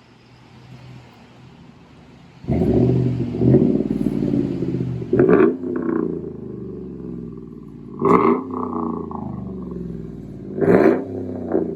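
Chevrolet Silverado 5.3-litre V8 exhaust with the muffler deleted, leaving only the resonator and catalytic converters. The engine sound comes in loud about two and a half seconds in, then there are three sharp throttle blips, each rising and falling quickly, plus a shorter blip near the end.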